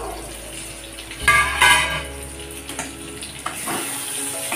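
Mushroom masala sizzling in a metal kadhai while a metal spatula stirs it, scraping against the pan, with a couple of louder ringing scrapes about a second and a half in.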